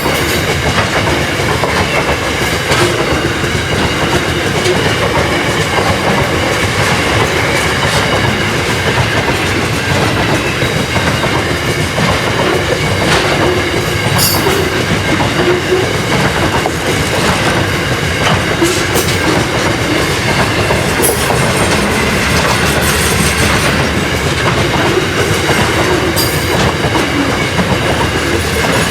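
Grain train rolling past at close range: a steady rumble of steel wheels on the rails with clickety-clack over the rail joints, and a few short, high wheel squeals now and then.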